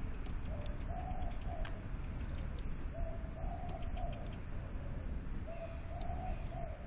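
A dove cooing three times at even intervals, each a phrase of about three low notes. Faint high chirps and a low rumble sit underneath.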